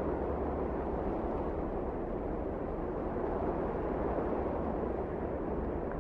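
Steady rushing wind of a snowstorm, an even noise with a low rumble underneath.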